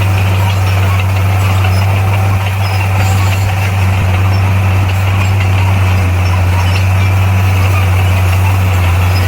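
Komatsu bulldozer's diesel engine running steadily with a loud, even low drone.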